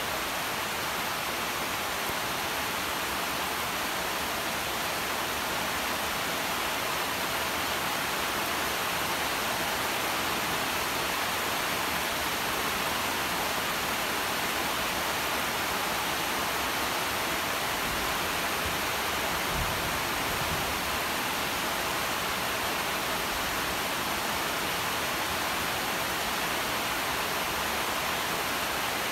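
Steady rain falling at night: an even, unbroken hiss with no let-up.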